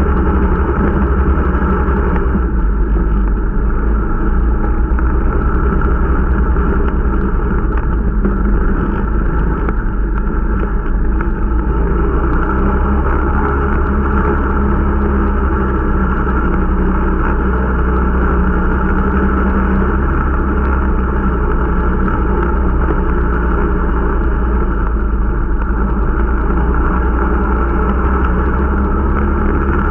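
Irbis Dingo T125 snowmobile's small 125 cc engine running steadily under way, heard on board during its break-in ride. Its low drone barely changes pitch, with a slight easing a little over two seconds in.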